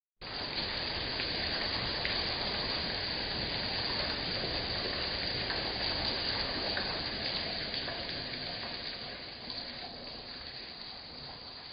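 Steady, heavy rain falling, a dense hiss with scattered drop ticks, easing a little over the last few seconds.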